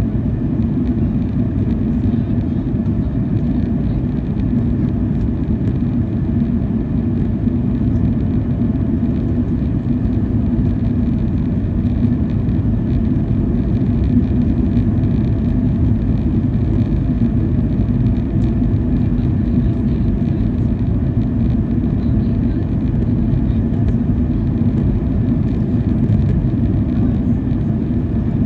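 Steady engine and airflow rumble inside the cabin of a Boeing 737-800 with CFM56 engines. The deep drone holds level throughout, with no surge or change in thrust.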